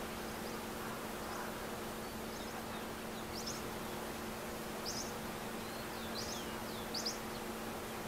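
Faint, high-pitched chirps of small birds, about five short sweeping notes scattered through a steady hiss and low hum; the last chirp, near the end, is the loudest.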